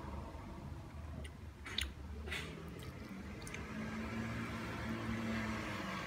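Chewing of soft ripe papaya, with a couple of short sharp clicks about two seconds in, over a low steady hum.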